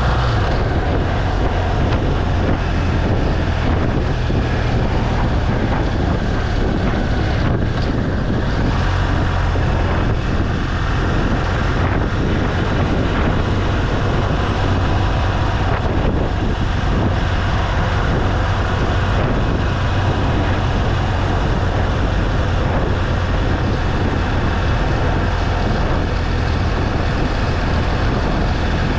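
BMW R1200 GS Adventure's flat-twin boxer engine running steadily while riding, a constant low drone with wind noise on the microphone.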